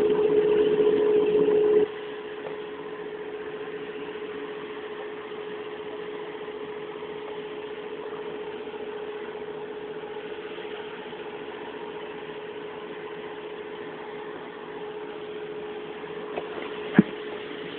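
Standing steam locomotive giving off a steady mechanical hum with one constant tone, which drops sharply in level about two seconds in and then holds steady.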